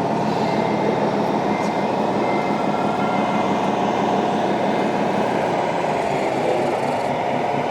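Radio-controlled model trucks running: a steady mechanical hum with a wavering whine.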